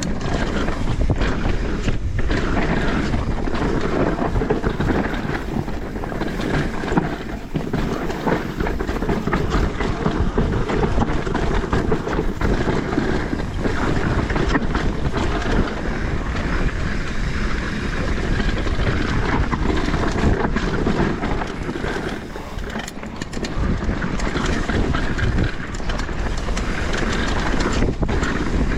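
Wind buffeting the microphone over the steady noise of a mountain bike's tyres rolling fast over a dirt trail, with frequent knocks and rattles from the bike over rough ground.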